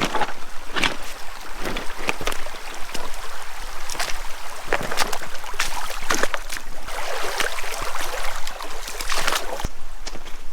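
Footsteps crunching on gravel and stones at an irregular walking pace, a little under one a second, over a creek running steadily.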